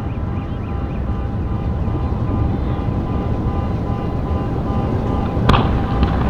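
Fireworks going off: a continuous low rumble of booms echoing, with one sharp crack about five and a half seconds in and a smaller one just after.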